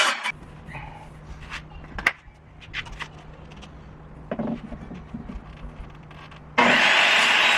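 A power saw cutting stops, leaving a low steady hum with scattered clicks and knocks for about six seconds, then starts cutting again near the end.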